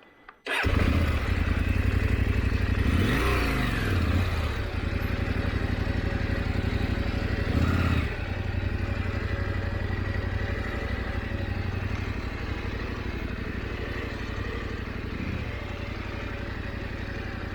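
KTM 890 adventure motorcycle's parallel-twin engine running on a dirt trail, cutting in abruptly after a brief quiet moment. The revs rise and fall about three seconds in and surge again briefly near eight seconds, then the engine settles to steadier, slightly quieter running.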